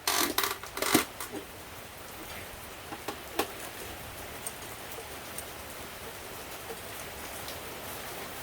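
Steady rain hiss. A quick run of clattering knocks in the first second and a single sharp click about three seconds in.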